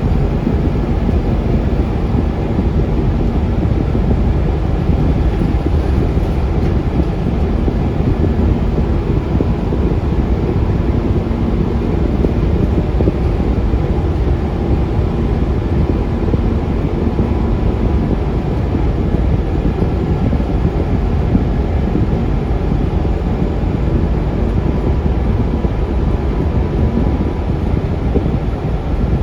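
On board a Scania K360UA articulated city bus under way: its Scania DC9 diesel running with a steady rumble of engine and road noise that holds even throughout.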